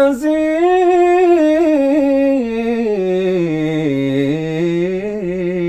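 A man singing unaccompanied, a long melismatic line on a sustained vowel in maqam Ajam. The ornamented pitch rises a little, then steps down over a few seconds to a lower note held with small wavers.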